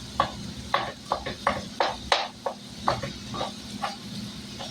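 A utensil scraping and tapping in a frying pan, about a dozen short, irregular strokes, as hamburger meat is broken up while it cooks.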